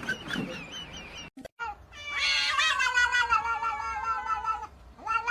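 A cat's long, drawn-out yowl lasting nearly three seconds, wavering in pitch. It starts after a brief break in the sound about a second and a half in.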